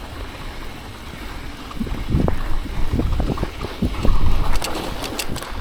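Wind buffeting a chest-mounted action camera's microphone while riding a bicycle through snow, a low rumble with irregular thumps from about two seconds in. A few sharp clicks come near the end.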